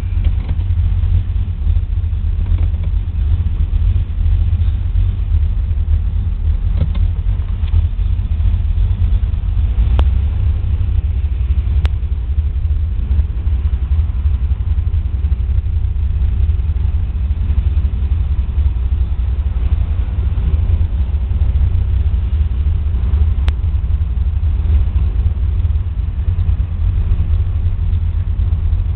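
A 1972 Chevrolet Nova's 383 stroker V8 heard from inside the cabin, running at low revs with a steady deep rumble and no hard revving.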